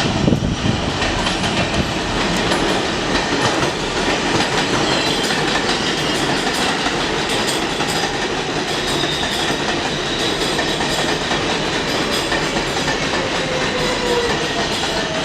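New York City Subway 7 train running on its elevated track, a steady loud rumble and clatter of wheels on rails with faint whining tones over it, the whine drifting lower in pitch near the end.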